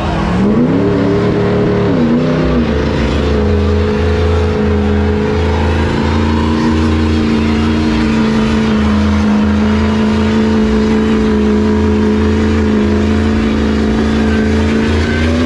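A car engine revs up, dips briefly about two seconds in, then is held at steady high revs for about twelve seconds during a burnout, with a hiss from the spinning tyres under it. The revs start to fall away at the very end.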